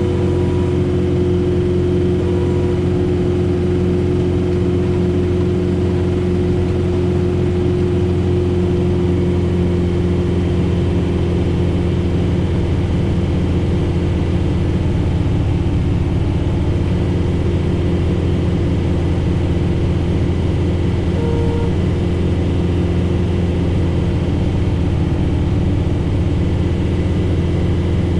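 John Deere 4066R compact tractor's diesel engine running steadily under load, driving a Frontier SB1174 snowblower through heavy, wet snow.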